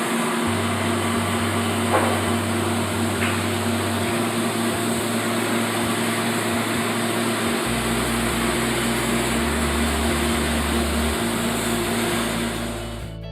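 A steadily running machine: an even whirring hiss with a steady hum, which stops shortly before the end. Low bass notes of background music change pitch every few seconds underneath.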